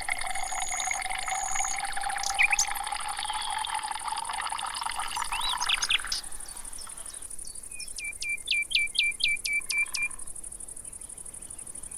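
Music with a sustained, slowly rising tone for about the first six seconds. Then, near the middle, a bird gives a quick run of about nine high, downward-sweeping chirps.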